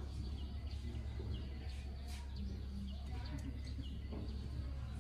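Small bird chirping repeatedly, short high chirps every half second or so, over a steady low hum. A light click of metal bicycle parts being handled sounds near the middle.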